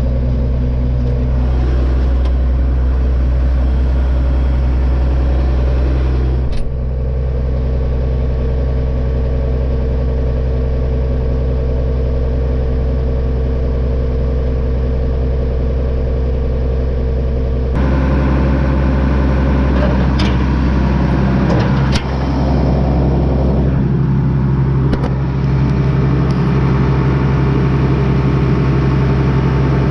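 Engine of a jump-started farm machine running steadily. About eighteen seconds in it turns fuller and rougher and a little louder, with a couple of sharp clicks along the way.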